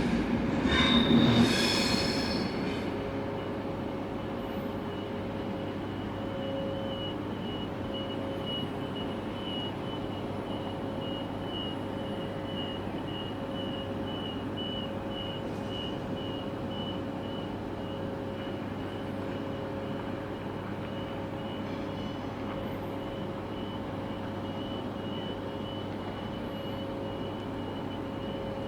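A train at a station: a louder high squeal in the first two seconds, then a steady electrical hum. A run of short, high-pitched warning beeps repeats evenly throughout.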